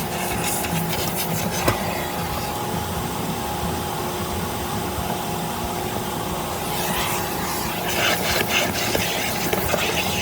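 Steady machine noise: a constant whirring hiss with a hum held at one pitch. From about seven seconds in, uneven rubbing strokes sound over it.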